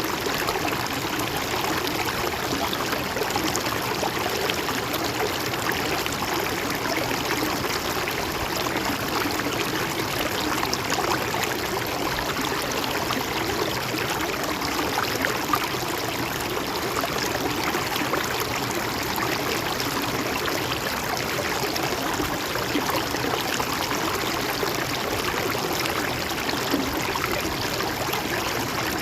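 Shallow river or stream flowing steadily, water trickling and gurgling over rocks.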